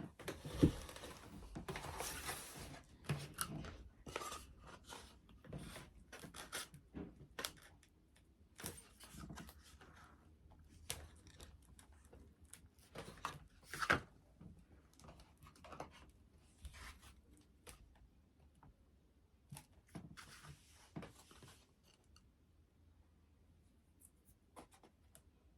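Hands working with foam board and craft materials: scattered rustling, scraping and sharp taps. These are busiest in the first half and thin out toward the end, with the loudest clicks near the start and about 14 seconds in.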